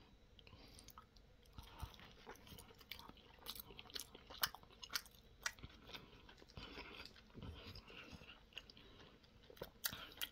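A person chewing a mouthful of a toasted steak Papadia flatbread sandwich with the mouth closed: faint, irregular wet clicks and small crunches.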